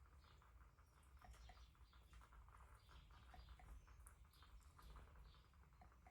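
Near silence: a faint low hum with faint scattered ticks and short high chirps.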